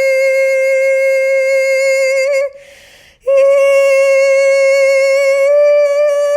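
A woman's voice toning a long, high sustained note on the crown-chakra 'E' sound, with a slight waver. It breaks off for a quick breath about two and a half seconds in, then resumes a little higher and edges up again near the end.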